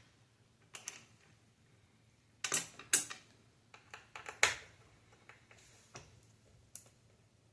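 Scattered clicks and knocks of hand tools and plastic console parts being handled during the teardown of an Xbox Series S, with the loudest cluster from about two and a half to four and a half seconds in.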